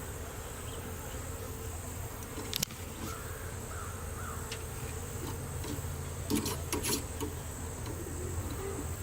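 Honeybees buzzing steadily around an open hive, a continuous low hum. A sharp click comes about two and a half seconds in, and a few more clicks and knocks follow past the middle.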